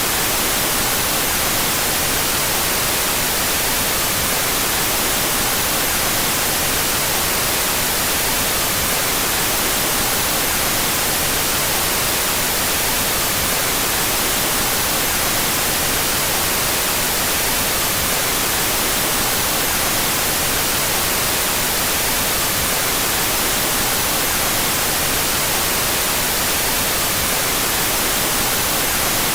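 Steady electronic white noise, an even hiss that does not change, played with its stereo channels out of phase.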